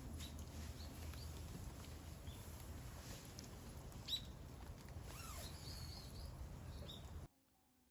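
Outdoor ambience: a steady low rumble with scattered short, high chirps like small birds calling and one sharp click about four seconds in; the sound cuts off abruptly about seven seconds in.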